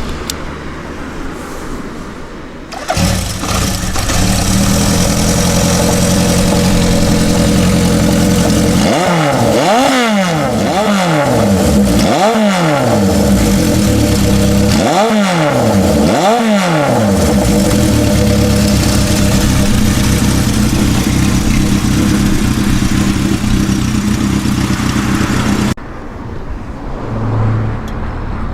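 Honda CB750 Four's air-cooled inline-four engine through a 4-into-1 exhaust, running hard. It gets louder about three seconds in. Midway the pitch rises and falls about six times in quick succession, then it holds a steady high drone and cuts off suddenly near the end.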